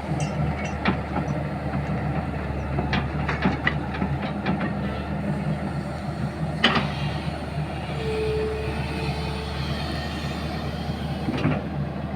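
Sany 210 excavator's diesel engine running steadily under work, with scattered sharp metallic clanks and knocks from the bucket and rock; the loudest knock comes a little past halfway.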